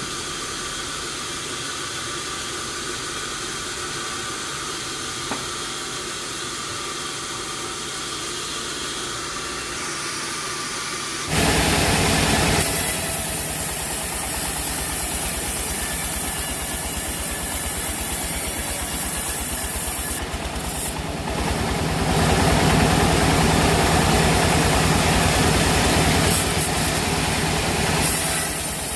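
A steady hiss, then about eleven seconds in an engine starts abruptly and keeps running with a fast even pulse, growing louder for a few seconds near the middle of its run; plausibly the engine driving the sawmill.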